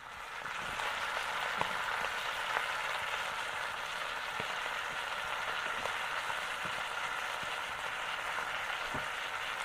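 Red peda salted fish and petai beans frying in oil, a steady sizzle that swells during the first half second and then holds, with a few faint ticks.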